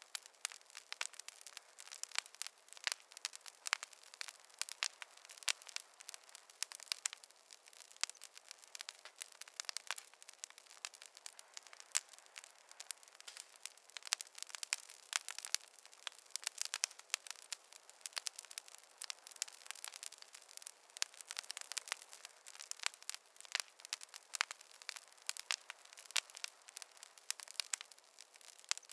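Wood fire crackling and popping: irregular sharp snaps, many a second, over a faint hiss.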